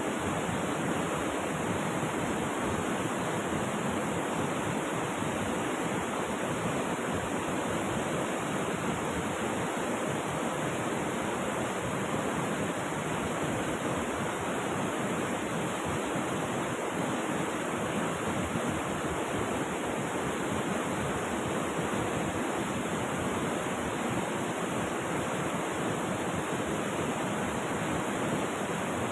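Rushing river water flowing steadily, an even rush that does not change.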